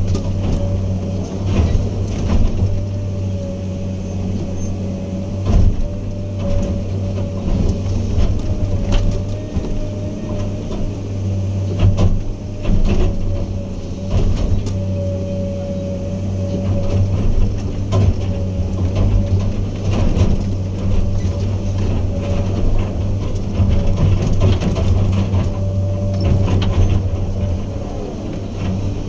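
Heavy diesel earthmoving machinery running steadily under load, with a steady whine over the engine note and irregular clanks and knocks throughout.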